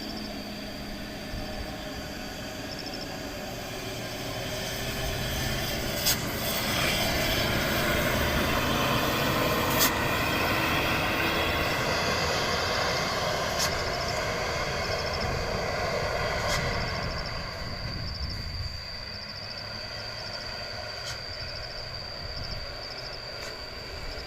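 Dump truck's brakes squealing and screeching under load as the truck creeps down a steep descent. The squeal swells louder from about five seconds in, holds, then eases off after about seventeen seconds, with a few sharp clicks along the way.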